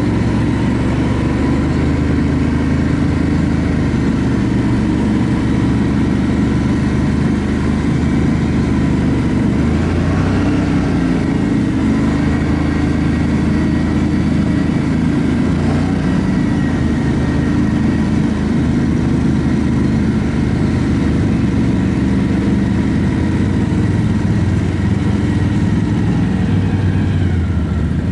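ATV engine running steadily while riding, its pitch shifting only slightly.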